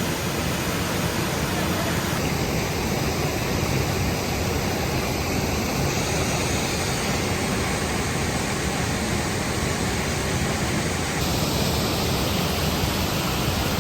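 Waterfall rushing close by: a steady, even wash of falling water.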